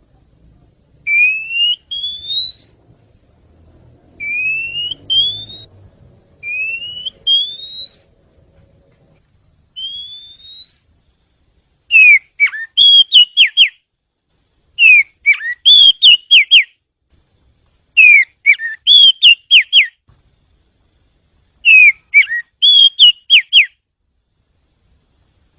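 Oriental magpie-robin (kacer) singing: rising whistled notes in pairs about every two seconds, then from about twelve seconds in, loud phrases of quick, sharp descending notes repeated every few seconds.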